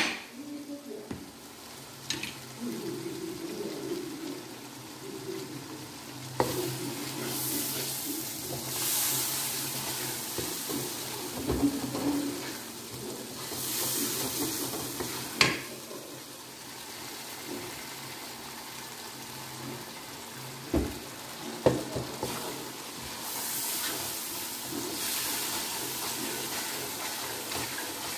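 Onion-tomato masala sizzling as it fries in oil in an aluminium pot, stirred and scraped with a wooden spatula, with a few sharp knocks of the spatula against the pot.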